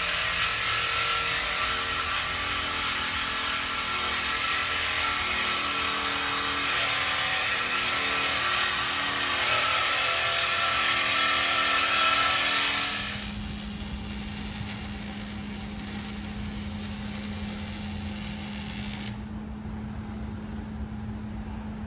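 Power tools running with a loud hiss and shifting tones. About 13 s in, this gives way to a quieter, steady low hum.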